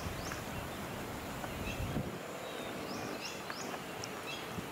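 Bird chirping in short bursts of three or four quick high notes, repeating every second or two, over a steady low outdoor rumble.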